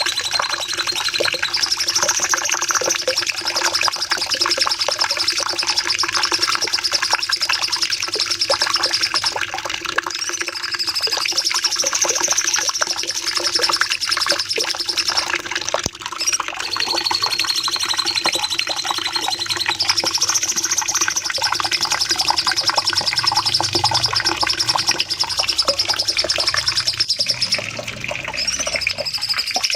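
Cucak cungkok songbird in long, continuous rapid-fire song: dense runs of fast, sharp high notes, phrase after phrase with only brief breaks. A steady low hum lies underneath.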